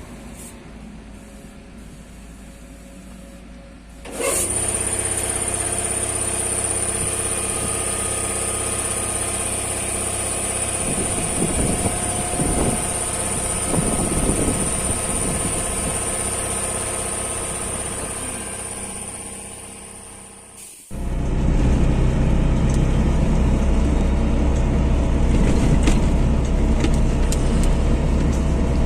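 Trabant 601's two-stroke twin-cylinder engine running while the car is driven, heard from inside the car. It is quieter for the first four seconds, then suddenly louder with a steady high-pitched tone over it. That fades out around twenty seconds in and gives way abruptly to a louder, deeper drone.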